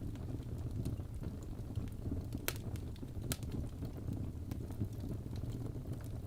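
Wood fire crackling, with many small crackles over a steady low rumble and two sharper pops, about two and a half and three and a quarter seconds in.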